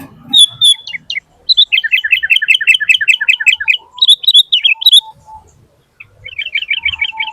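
A bird chirping loudly: a few sharp calls, then quick runs of repeated chirps, with a brief pause about five seconds in.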